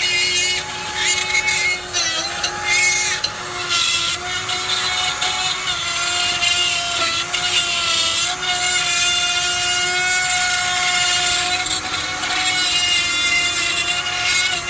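Electric power tool running continuously, its motor pitch dipping briefly a few times as it bears into the work, with a high wavering squeal over it.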